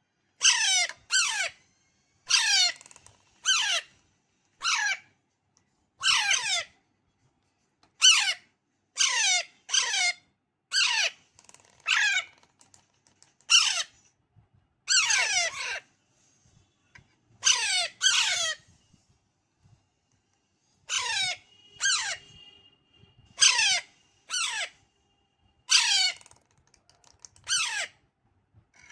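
Pahadi parrot (Alexandrine parakeet) chick calling over and over: short calls that each fall steeply in pitch, about one a second, some in quick pairs. These are the food-begging calls typical of a hand-reared chick.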